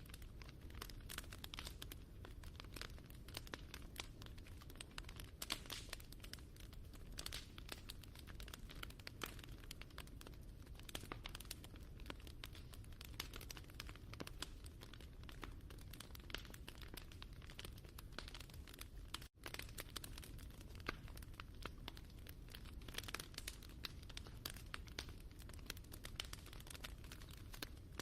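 Wood fire crackling: a dense, irregular stream of small pops and snaps over a low rumble, cutting out for an instant about nineteen seconds in.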